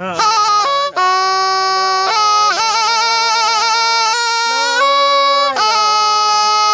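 Thai pi, a reed oboe, playing a melody of held notes that step up and down about once a second, each with a wavering ornament. The playing starts right at the beginning and continues without a pause.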